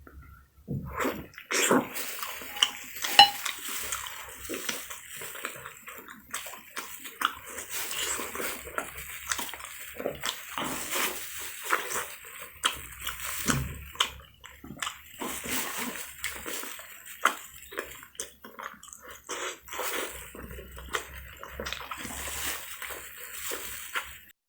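Close-up wet eating sounds: irregular slurping, squelching and chewing of soft, saucy food.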